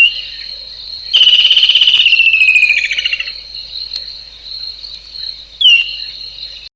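Nature ambience: a steady high chorus of insects, with a loud, rapidly pulsed trill that slides downward in pitch for about two seconds, and a short sharply falling whistled call at the start and again near the end. The sound cuts off abruptly just before the end.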